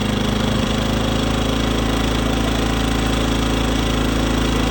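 Westinghouse 2500 inverter generator's small single-cylinder four-stroke engine running steadily on a squirt of starter fluid. It runs only on the fluid because the bad carburetor is not feeding it gasoline.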